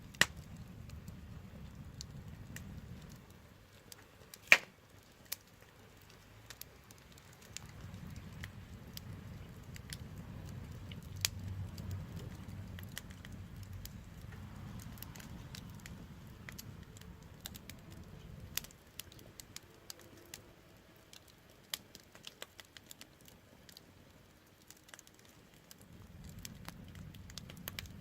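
Burning wood fire crackling, with scattered sharp pops and one loud snap about four and a half seconds in. A low rumble comes and goes underneath.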